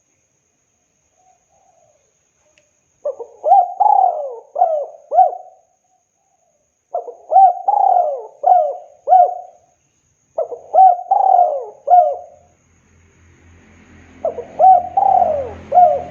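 Spotted dove (tekukur) cooing: four phrases of several coo notes each, a few seconds apart. A low hum and hiss come up under the last phrase.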